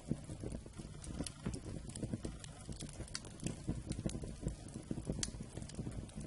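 Wood campfire burning: dense, irregular crackling with frequent sharp pops over a low steady rumble of the flames.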